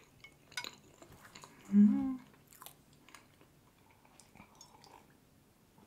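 Chewing a mouthful of soft cake, with small wet mouth clicks and a fork clicking down on the plate. About two seconds in, a short hummed "mm" with the mouth closed, the loudest sound. Near the end, quiet sips of tea from a mug.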